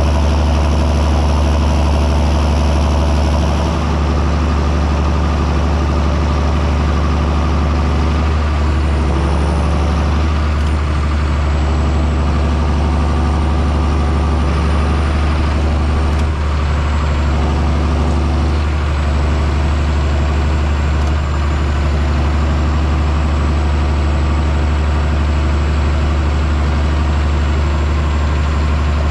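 John Deere 6630 Premium tractor's diesel engine running steadily under load while plowing: a deep, even hum with a faint high whine above it and brief small dips about four and sixteen seconds in.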